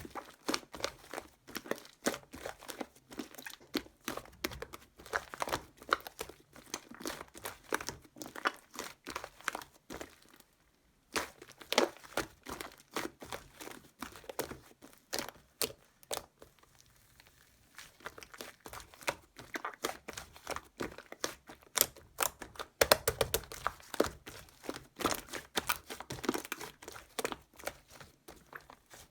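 Close, dense crinkling, crackling and clicking of hands working slime-making materials, the sound broken by short pauses about ten seconds in and again around seventeen seconds in.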